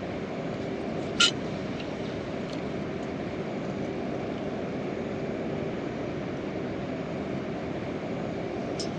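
Steady heavy rain falling on the tent or tarp, a constant low rushing noise, with one short click about a second in.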